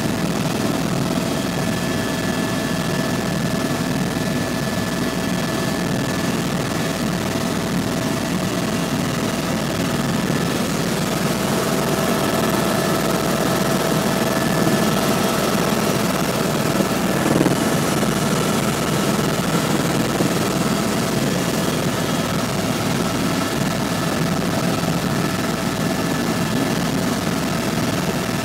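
Helicopter in cruise flight: a steady drone of rotor and engine, with a few faint steady whining tones above it.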